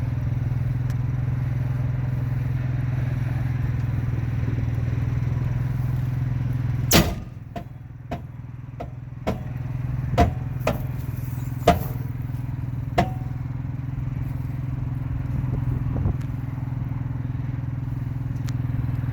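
RV auto-leveling jacks at work, the leveling system humming steadily. About seven seconds in there is one loud sharp pop, then a string of smaller pops and clicks over the next few seconds: the popping the owner is trying to track down.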